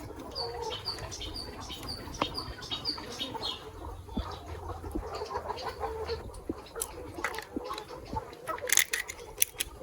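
Chickens clucking and birds calling: a run of short, evenly spaced high chirps for the first few seconds, then scattered calls, with a few sharp clicks near the end.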